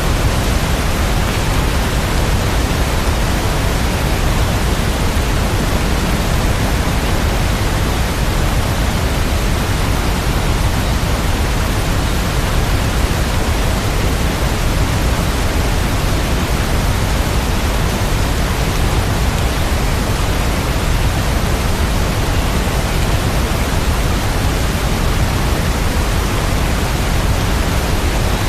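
Steady sleep-track rain sound: a dense, even hiss with no separate drops, strongest in the low end, running unchanged.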